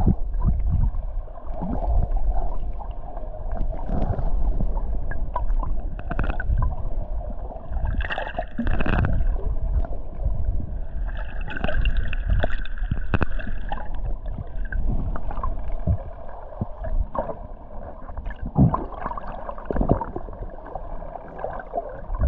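Water gurgling and sloshing over a steady low rumble, with irregular knocks and splashes.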